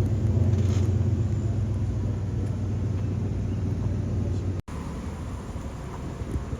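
Car engine running with a low, steady note, loudest in the first couple of seconds; the sound drops out for an instant just after halfway, then the engine sound carries on a little quieter.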